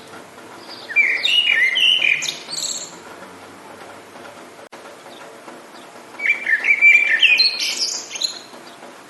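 A songbird singing two phrases of quick, varied chirping notes, each about two seconds long and a few seconds apart, over a faint steady hiss of rain.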